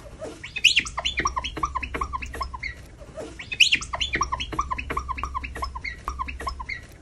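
Birds chirping in a quick run of short, falling chirps; the same phrase plays twice, about three seconds apart, and cuts off suddenly at the end, as an edited-in bird sound clip would.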